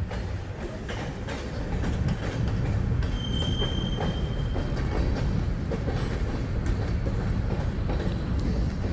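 Freight train of covered hopper cars rolling slowly past: a steady low rumble of steel wheels on rail with scattered faint clicks. About three seconds in, a thin high wheel squeal rises and lasts about a second and a half.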